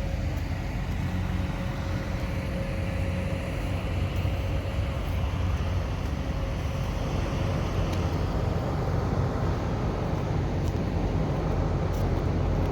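Semi truck's diesel engine running steadily, a low even hum. A faint thin whine sits above it and fades out about seven seconds in.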